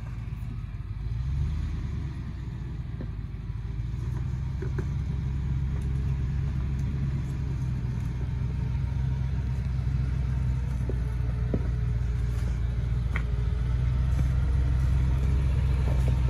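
Range Rover P38 engine running at low revs as the 4x4 crawls up a rocky track, growing louder as it comes closer, with a few faint clicks.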